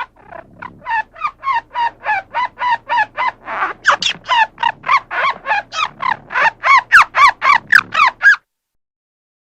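Squirrel giving a long run of repeated alarm calls, about three or four short notes a second, growing louder and stopping about eight seconds in.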